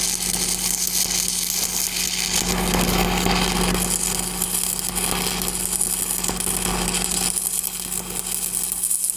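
Stick-welding arc crackling and hissing steadily as an electrode burns down a pipe joint in a downhill pass, over a steady low hum.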